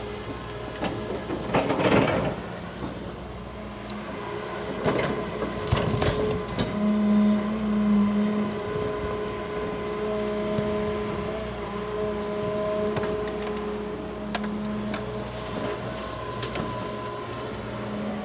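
Large tracked excavator's diesel engine running under load as it digs, its pitch and level swelling briefly a third of the way in. Several knocks and scraping crunches from the bucket working the earth and roots, about 2, 5 and 6 seconds in.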